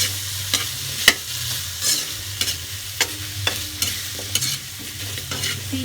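Potatoes, carrots and onion sizzling as they fry in a pan, stirred with a utensil that clicks against the pan about every half second.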